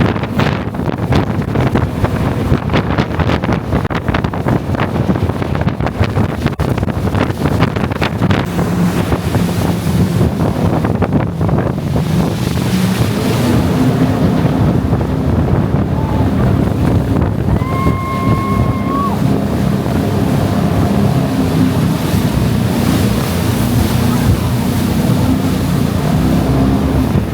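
Jet boat running at speed on the river: its engine and the rush of water, with heavy wind buffeting on the microphone. Partway through, the buffeting eases and the engine's low hum comes through steadier. A brief steady high tone sounds about two-thirds of the way in.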